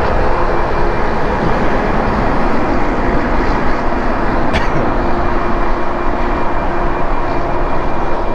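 Steady rush of wind on the microphone while riding an e-bike, with a faint steady whine underneath and a single sharp click about four and a half seconds in.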